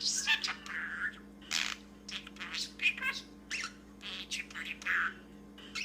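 Male budgerigar chattering and talking: a quick, irregular run of short high chirps, clicks and warbled imitations of speech.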